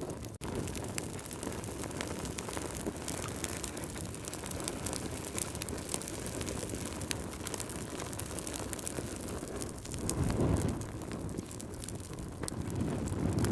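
Wood fire crackling steadily, with frequent sharp pops over a low roar that swells twice, about ten and thirteen seconds in.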